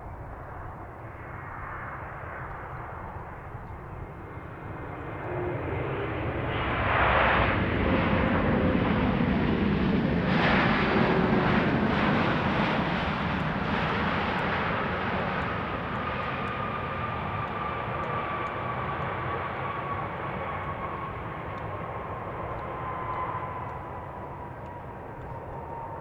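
ANA Airbus A321neo jet airliner's engines on landing: a broad jet rumble swells about five seconds in, stays loud for several seconds, then slowly fades, with an engine whine gradually falling in pitch.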